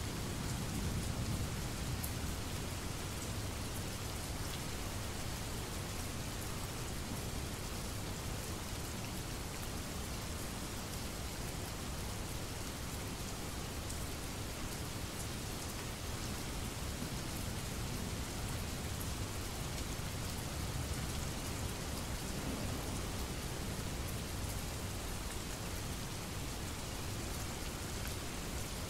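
Steady rain falling, with low rumbles of distant thunder swelling under it near the start and again about two-thirds of the way through.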